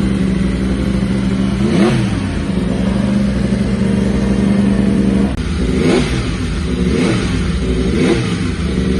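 Superbike racing motorcycles passing at speed, the engine pitch sweeping down as each goes by, once about two seconds in and then about once a second through the second half. A steady engine note runs underneath and stops about five seconds in.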